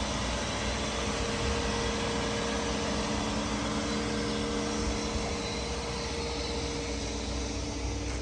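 1999 Bentley Arnage engine idling steadily, running very smooth with no abnormal noises.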